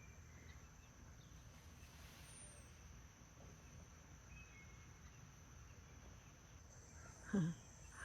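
Quiet rural outdoor ambience: a steady high-pitched insect drone from crickets, a low background rumble and a few faint bird chirps. About seven seconds in, a short loud vocal sound breaks in.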